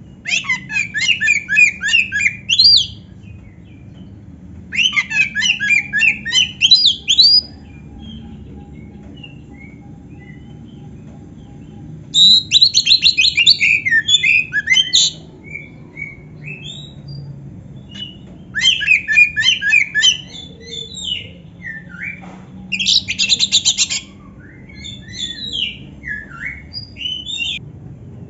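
Oriental magpie-robin (kacer) singing a song filled with canary-like rapid trills and chattering phrases, in five loud bursts of two to three seconds separated by short pauses, with scattered single notes near the end.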